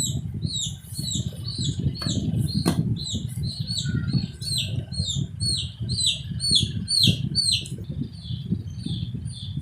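A pet chick peeping repeatedly, short high calls that fall in pitch, about two a second, over a louder low rustling noise. Two sharp clicks sound about two and three seconds in.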